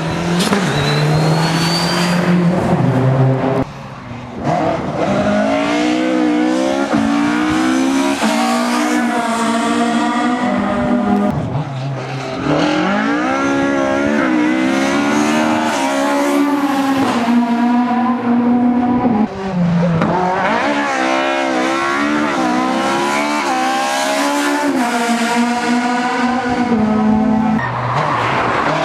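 Rally car engine revving hard on a stage, its pitch climbing and dropping again and again as it changes gear and lifts off the throttle.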